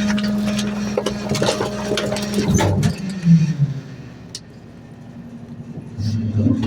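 Garbage truck running with a steady low hum, with a rapid clatter of knocks over the first three seconds. It goes quieter after about four seconds, then grows louder again near the end.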